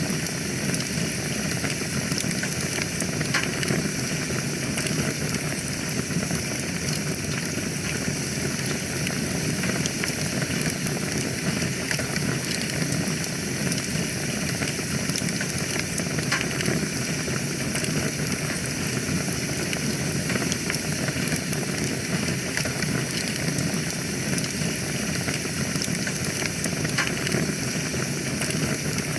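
Wood fire burning in a fireplace: a steady hiss with small, scattered crackles and pops.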